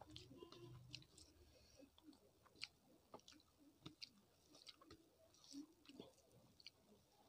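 Faint chewing and wet mouth sounds of a person eating rice and curry by hand, with small irregular clicks and smacks.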